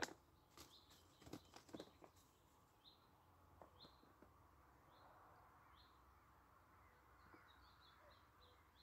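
Quiet outdoor ambience with a small bird giving short, high chirps roughly once a second, then a quicker run of chirps near the end. A sharp click opens the stretch, and a few more clicks and knocks follow in the first two seconds.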